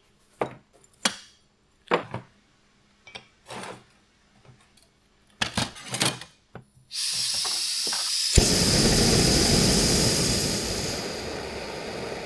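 Knocks and clinks of cooking gear being handled, then a loud hiss from about seven seconds in. About a second and a half later a sharp knock brings a fuller, deeper sizzle: marinated skirt steak frying in a hot pan.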